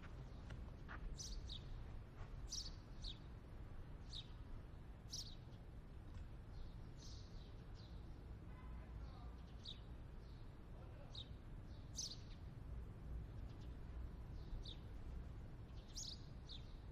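Faint, sparse chirps of small birds, short high calls that fall in pitch, one every second or so, over a low steady hum.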